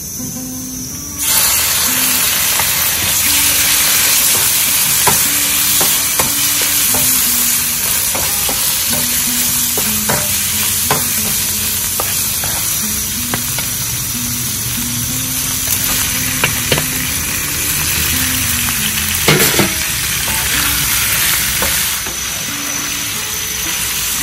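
Meat frying in hot oil in a pan. A loud sizzle starts suddenly about a second in and keeps going, with short clicks from a utensil stirring.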